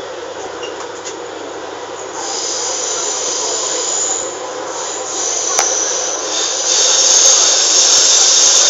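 Running noise heard inside an MTR K-Train (Hyundai Rotem electric multiple unit) car: a steady rush of wheels on rail and air. It grows louder about two seconds in and again near seven seconds, with a high hiss getting stronger.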